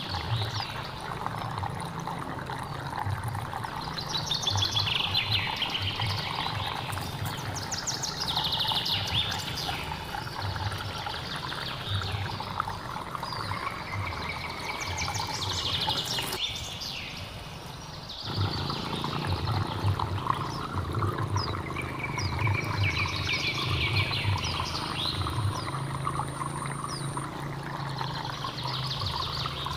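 Birds singing short, repeated chirping phrases over a steadily flowing hill stream, with the sound dipping briefly just after halfway.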